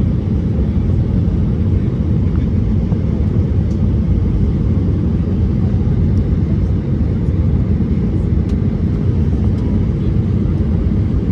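Steady low rumble inside the cabin of an Airbus A320-214, the noise of its CFM56 jet engines and the air rushing past the fuselage.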